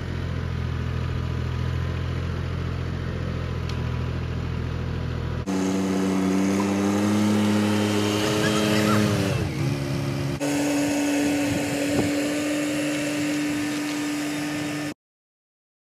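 Tractor engine running, in three abruptly spliced stretches: a low, steady run; then a higher-pitched run whose pitch sags and recovers past the middle; then a steady higher note. The sound cuts off suddenly near the end.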